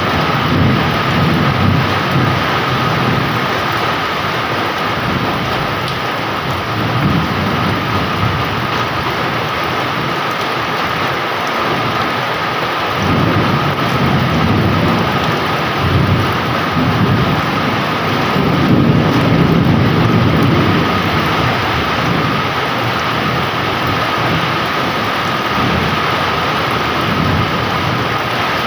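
Heavy rain pouring steadily, with thunder rumbling low in several long, rolling swells.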